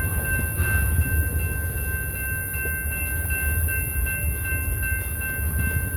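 BNSF train moving slowly on the track, a continuous low rumble with no break.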